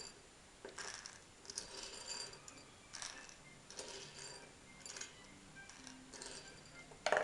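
Dry chickpeas dropped into an open plastic egg, making a scattered series of light clicks and rattles, with the loudest one near the end. Faint background music plays underneath.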